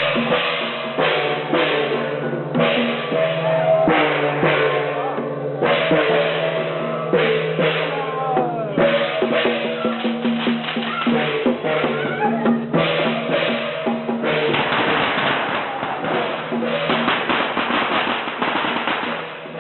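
Drums beating continuously in quick, dense strikes, in the manner of traditional Chinese ritual percussion.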